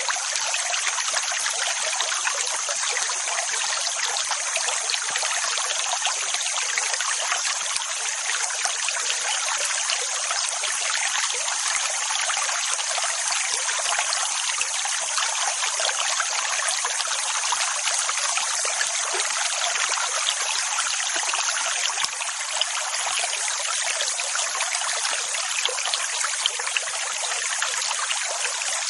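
Running water making a steady, even rushing hiss, with no deep rumble and no rise and fall of individual waves.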